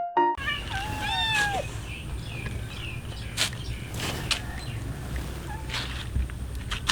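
Hungry cats meowing several times, the clearest meow about a second in, over a steady low background rumble with a few sharp clicks; the last notes of a piano jingle end just at the start.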